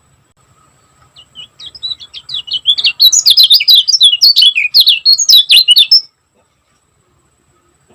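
Kecial kuning (scaly-crowned honeyeater) singing a fast, tightly packed run of sharp chirps. The song starts softly about a second in, builds to loud, and breaks off suddenly about six seconds in.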